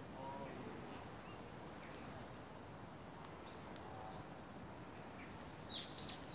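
Faint outdoor background with a few short, high bird chirps, and two louder sharp chirps in quick succession near the end.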